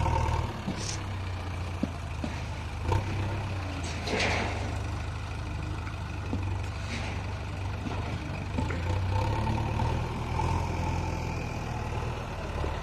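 Heavy diesel engine running steadily with a low rumble, with a few scattered knocks and a short hiss about four seconds in.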